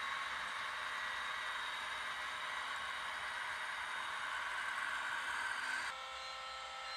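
Steady rushing noise of a train rolling past, with faint high steady whines through it. Near the end it changes suddenly, becoming quieter with a few steady tones.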